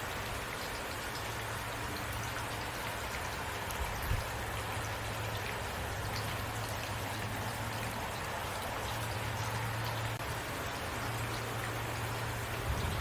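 Steady rain falling: an even hiss with scattered individual drops ticking, over a constant low rumble. A brief soft thump about four seconds in and another near the end.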